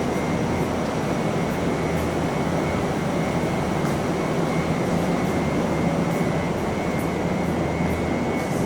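Steady rumble of large vehicle machinery with a constant high whine.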